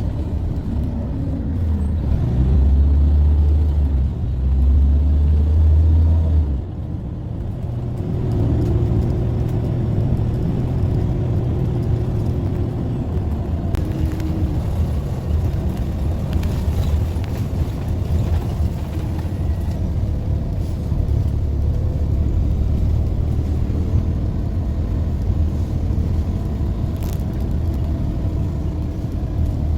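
A bus's engine running with road rumble, a steady deep drone whose engine note shifts as it drives, heaviest for the first six seconds or so.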